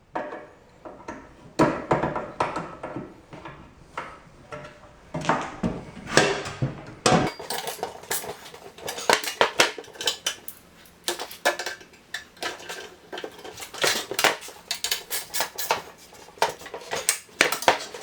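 Irregular metal clinks and taps of hand tools on the steel parts of a Rubi TS 50 tile snap cutter as its new parts are tightened down.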